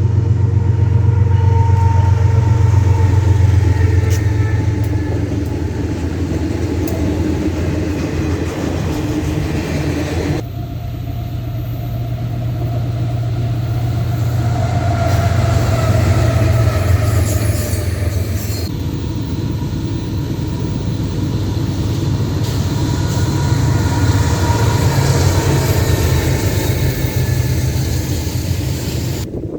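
Railway locomotives running by: a steady, loud, low engine rumble mixed with wheel and rail noise. It changes abruptly twice, about a third and two thirds of the way through.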